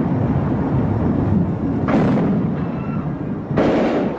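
Gunfire: two loud bangs, about two seconds and about three and a half seconds in, over a continuous loud roar.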